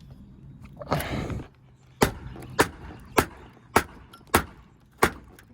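A short scrape about a second in, then six sharp hammer blows about every 0.6 s, driving at a nail that will not come out of old rotted wood.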